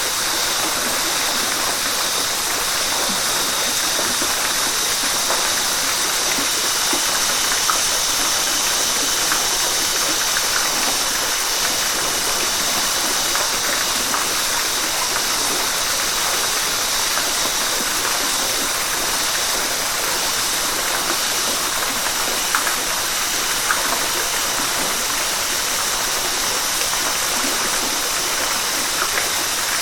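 River water rushing steadily over rocks, a constant splashing rush with small spatters here and there.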